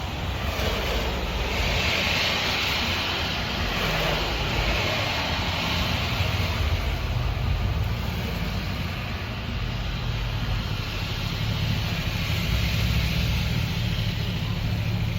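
Steady rushing road noise with a low rumble under it, swelling a little around two and thirteen seconds in.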